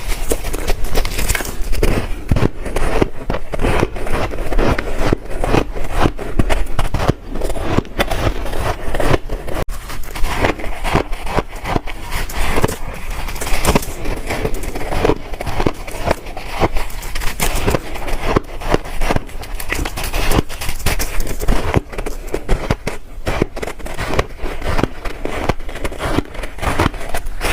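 Close-miked crunching of ice being bitten and chewed: a dense, continuous run of crisp crackling crunches.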